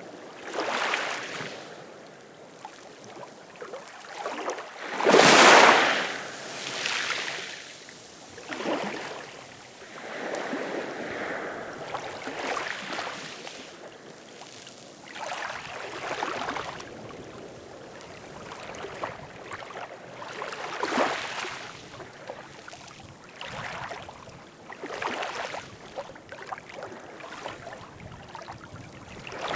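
Ocean waves washing in and breaking one after another at uneven intervals of a few seconds, the biggest about five seconds in.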